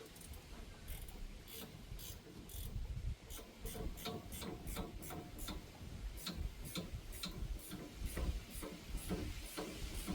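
Hand ratchet wrench clicking in a long run of quick strokes, about two to four clicks a second, as a nut or bolt is worked on the car's suspension.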